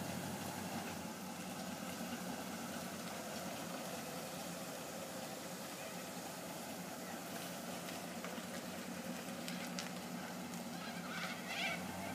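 Classic Pontiac convertible's engine running steadily at low speed as the car pulls out and drives slowly away, with a few brief higher-pitched sounds near the end.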